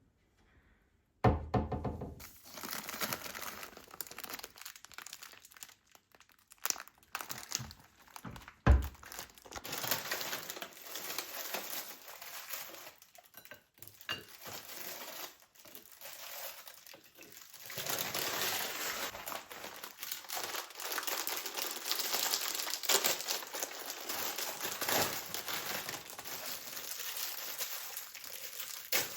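Packaging or bags crinkling as things are handled, with a few thunks, the sharpest about nine seconds in.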